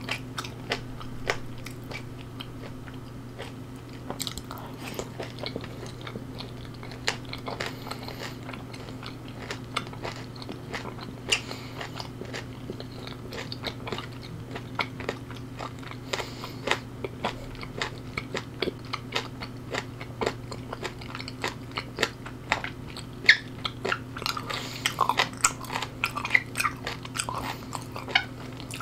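A person chewing and crunching food close to the microphone, mukbang-style, with a steady stream of small crisp crunches and wet chewing clicks. A steady low electrical hum runs underneath.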